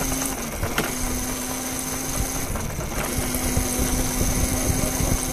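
Vehicle motor running steadily, with a constant hum and a thin high whine over a low rumbling haze. The hum drops out briefly twice, about half a second in and again near three seconds.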